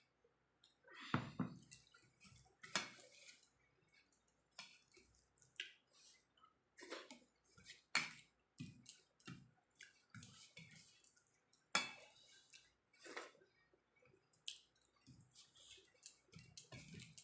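Close-up eating sounds of a person eating jackfruit curry with rice: faint, irregular wet smacks and clicks of chewing.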